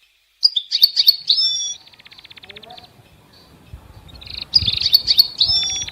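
European goldfinch singing: two bursts of high, liquid twittering with quick sliding notes, each running into a fast, dry rattling trill.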